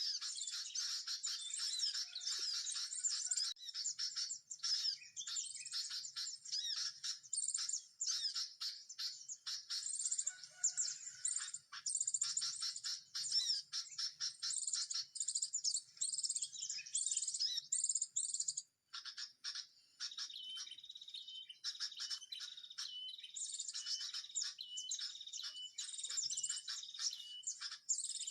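Small birds chirping and twittering rapidly and without a break, with a short pause about two-thirds of the way through.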